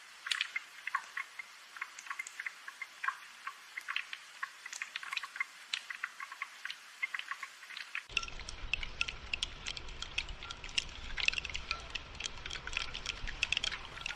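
Rain falling as many small, irregular drips and taps. About eight seconds in, the sound changes abruptly as a low rumble joins underneath the dripping.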